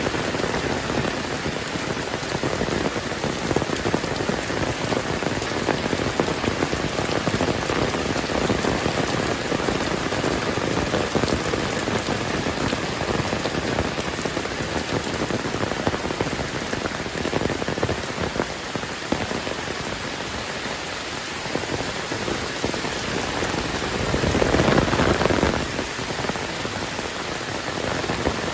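Heavy rain falling steadily, a dense patter of drops on the ground and surfaces. The downpour swells louder for a second or two near the end.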